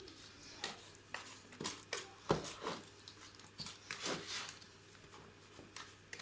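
Adhesive mortar being mixed by hand with water in a container: a run of irregular scrapes and knocks, about ten in six seconds.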